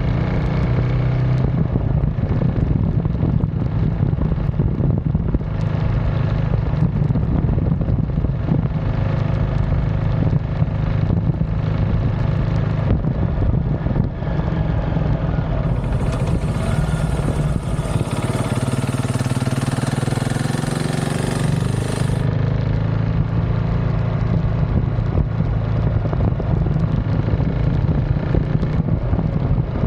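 KTM 690 SMC R supermoto's single-cylinder engine with an aftermarket DVR exhaust, running steadily under way. A few seconds past the middle the engine note dips and a hiss comes in, then the steady note returns.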